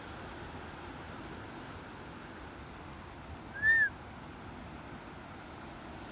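A single short whistled bird call, rising then falling in pitch, a little past halfway, over a steady rushing background noise.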